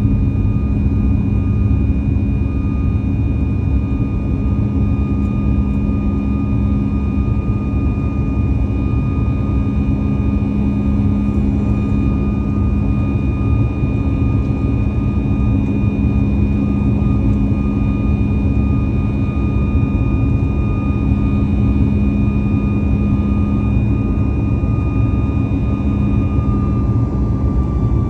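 Steady cabin noise of a Boeing 737 MAX 8 in flight: the deep rumble of the CFM LEAP-1B turbofans and airflow, with steady whining engine tones over it. Near the end the higher whine fades and the lower one drops slightly in pitch, as the engines ease back a little.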